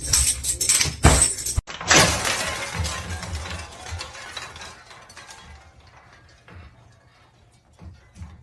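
A few clattering knocks, then about two seconds in a sudden loud crash of something breaking or falling, with a scattering rattle that fades over the next few seconds.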